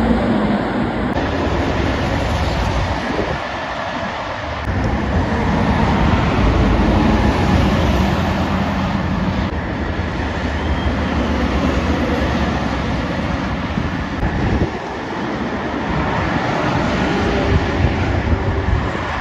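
Heavy road traffic passing at speed, with trucks' diesel engines rumbling under continuous tyre noise. The sound swells about six seconds in as a vehicle goes by and eases briefly near the end.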